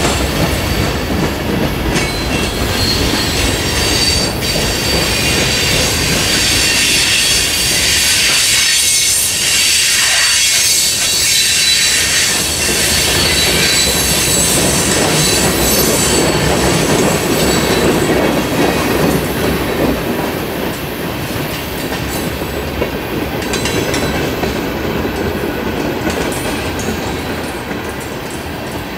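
A train rolling past at close range: wheels clicking over the rail joints under a steady rumble, with a thin, high wheel squeal running over it.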